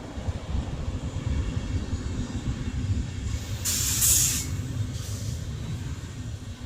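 Train rolling past with a steady rumble of wheels on rails, and a brief loud hiss of air a little over halfway through.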